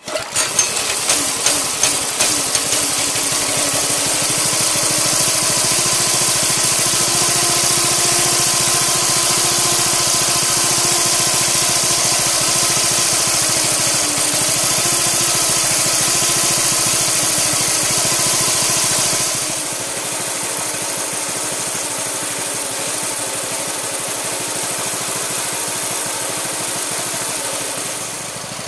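A motor running steadily and loudly, with a strong hiss over a wavering hum; it eases to a slightly lower level about two-thirds of the way through.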